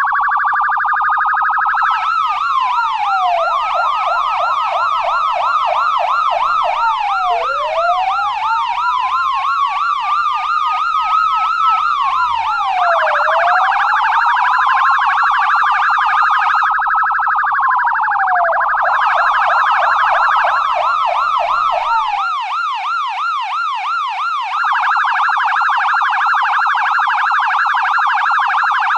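American police car's electronic siren switching between modes: a slow wail that rises and falls, a fast yelp sweeping up and down several times a second, and an even faster warble. A faint low rumble sits under the siren until about three-quarters of the way through, then drops out.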